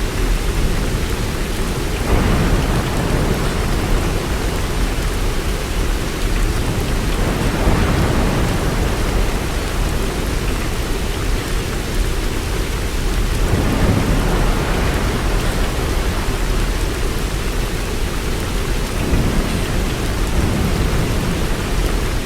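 Heavy rain falling steadily in a thunderstorm, with about four low rolls of thunder that swell and fade.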